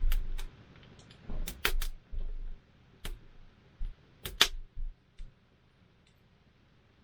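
Wood campfire crackling, with irregular sharp pops and snaps, the loudest about four and a half seconds in, then a calmer stretch near the end.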